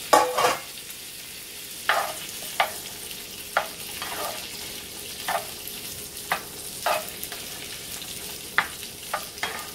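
Quartered baby potatoes frying in butter and olive oil in a cast-iron skillet, with a steady sizzling hiss. A spatula stirs them, scraping and knocking against the pan about ten times, loudest right at the start.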